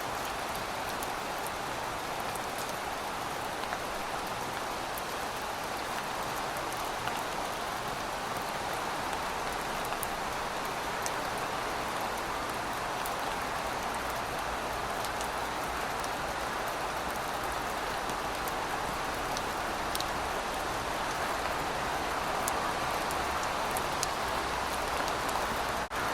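Steady rain falling on pavement: a dense, even hiss with scattered sharp ticks of individual drops.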